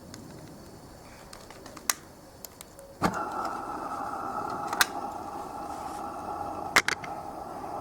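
Live-steam garden-railway locomotive on a light-engine test run: a few sharp clicks, then about three seconds in a steady rushing sound starts abruptly and carries on, with more sharp clicks over it.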